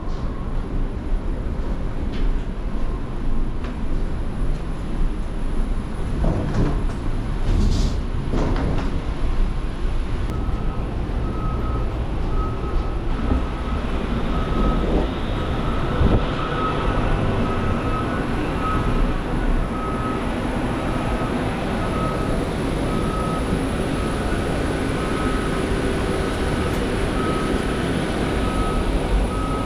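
Steady low mechanical rumble and hiss of aircraft and airport machinery during boarding. From about a third of the way in, a short electronic beep repeats a little faster than once a second.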